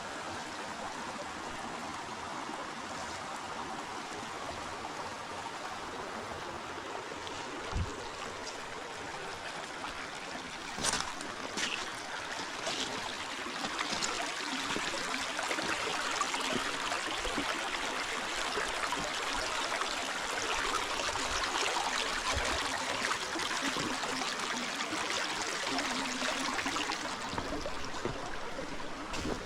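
Forest river flowing with a steady rush of water that grows louder in the second half. A few short knocks break in, the sharpest about eleven seconds in.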